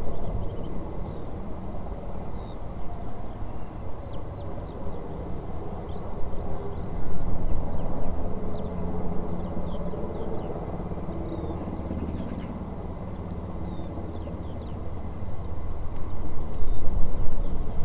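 Distant jet aircraft engine rumble that swells and eases, with small birds chirping throughout in short, falling notes.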